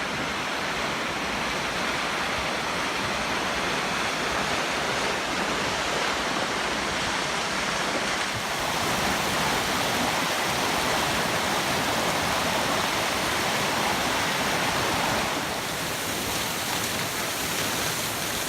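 Svartifoss waterfall: a steady rush of falling water.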